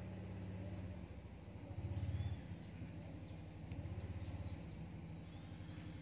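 A small bird chirping: short, falling chirps repeated about three times a second, starting about a second and a half in, over a low steady rumble that swells briefly about two seconds in.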